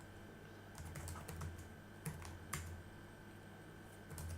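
Faint computer keyboard typing, with scattered keystrokes.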